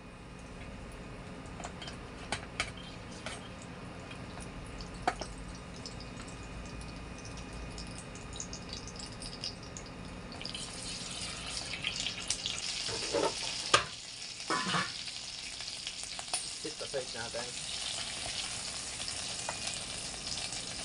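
Raw chicken liver ladled into hot oil in an electric nonstick pan. It starts sizzling about halfway through and keeps on, with a few knocks of the ladle against the pan.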